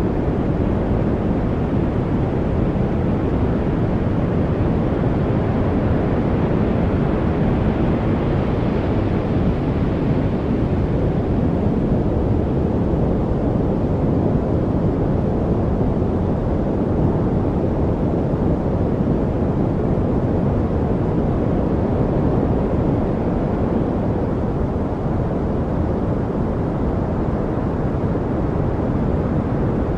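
Steady, deep noise from a study white-noise track, most of it low and rumbling, with no separate sounds in it; a little more hiss swells in around eight seconds in and fades again.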